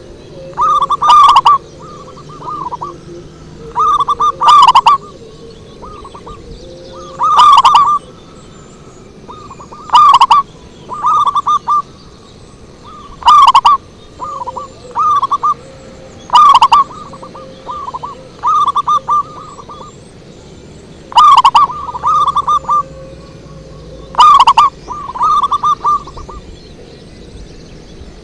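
Zebra dove (perkutut) cooing: loud phrases of several quick coo notes, repeated about every three seconds, as a lure call.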